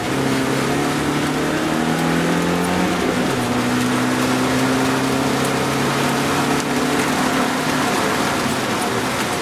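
BMW E30 318is four-cylinder engine heard from inside the cabin, climbing in revs, dropping sharply at a gear change about three seconds in, then pulling up again more slowly. A steady hiss of rain runs underneath.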